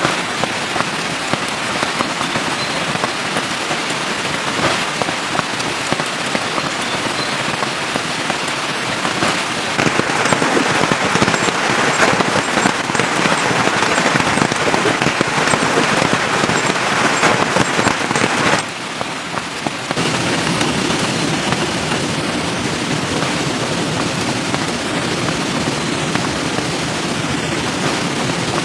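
Steady rain falling, a dense patter of drops with a short quieter stretch about two-thirds of the way through.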